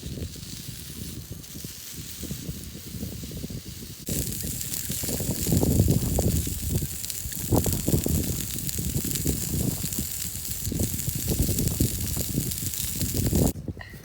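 A steady hiss that gets louder about four seconds in and drops away shortly before the end, over irregular low rumbling.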